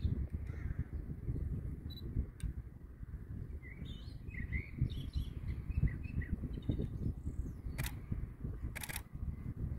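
Small birds chirping over a low, fluttering outdoor noise, with two short hissing bursts about a second apart near the end.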